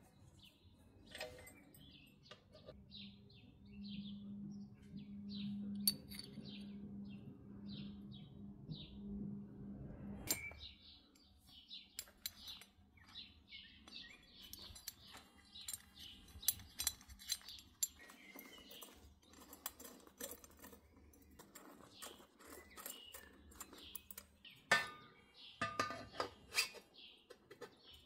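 Birds chirping in short, evenly repeated calls over a steady low hum for the first ten seconds. After the hum stops, many light clinks and taps, with birds still chirping.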